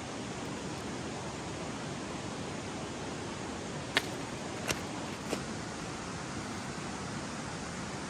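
Steady rushing of a river, with three sharp cracks a little past halfway, each under a second apart.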